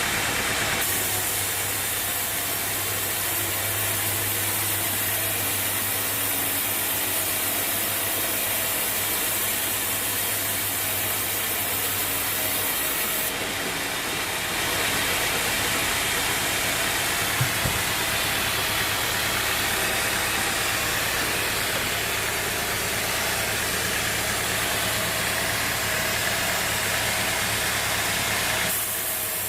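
Bandsaw mill running steadily: engine and blade noise with a wide hiss. The tone shifts abruptly about a second in, around the middle and near the end, and there is one brief knock about two thirds of the way through.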